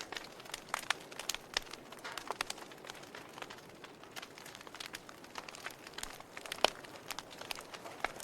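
Wood fire burning in a fireplace, crackling with irregular snaps and pops over a low hiss, one louder pop about six and a half seconds in.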